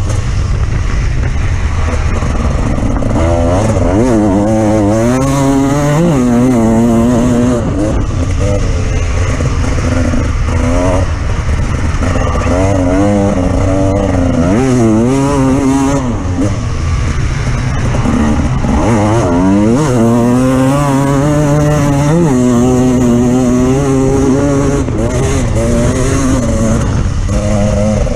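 Off-road vehicle engine running loud and continuously, its pitch rising and falling again and again as the throttle is worked on and off over rough ground.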